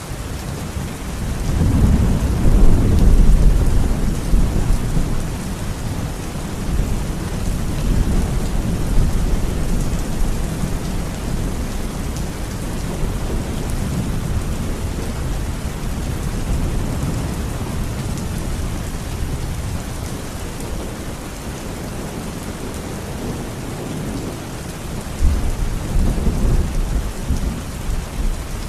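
Steady heavy rain with rolling thunder: a long deep rumble swells up about two seconds in and fades over several seconds, and another rumble begins near the end.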